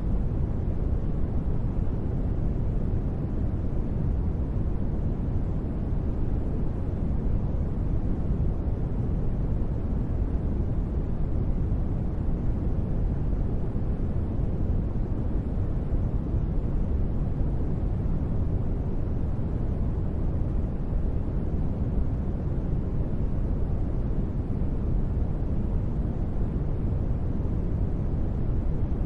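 Steady synthesized noise of a deep-space ambience track, a deep, unchanging rumble with most of its weight in the bass and little treble.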